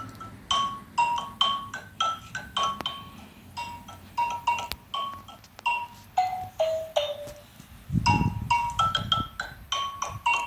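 Xylophone played with mallets in a loose, irregular melody of single struck notes, several a second, with a short falling run partway through. A brief deeper sound joins about eight seconds in.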